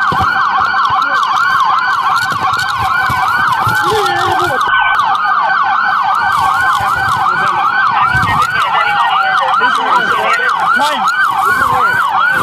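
Police car sirens in fast yelp mode, rapid rising and falling sweeps about three to four a second, with more than one siren overlapping.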